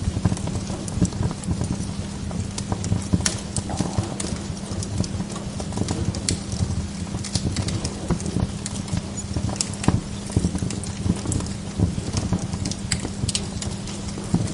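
Wood log fire crackling in a fireplace: irregular sharp pops and snaps over a steady low hum.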